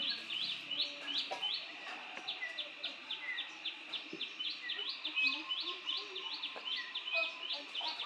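Birds chirping: a fast, very regular run of short high chirps, about four a second, with a few lower whistled and falling notes scattered among them.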